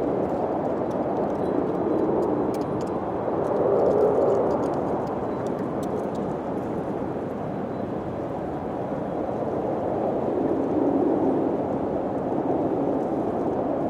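Wind blowing in gusts, swelling about four seconds in and again near the end, with a few faint ticks in the first half.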